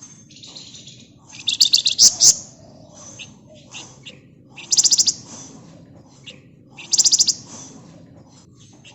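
Flamboyan (Javan fulvetta) singing: three loud bursts of fast, high trilling notes, the first and longest about one and a half seconds in, the others about five and seven seconds in, with softer scattered chirps between.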